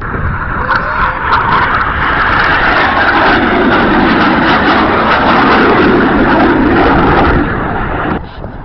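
Jet engine noise from a BAE Hawk of the Red Arrows making a loud flypast. A high rushing sound is joined by a deeper rumble about three seconds in, holds steady, then drops off sharply about eight seconds in.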